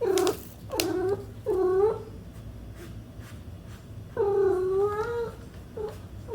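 Kitten meowing: three short, high meows in quick succession, a pause, then a longer meow and a brief short one near the end.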